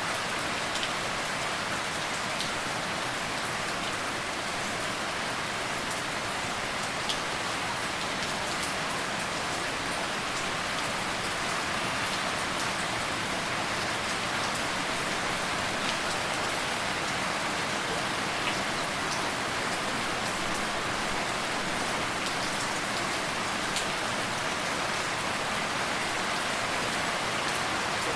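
Steady rain falling, an even hiss with a few distinct drop ticks scattered through it.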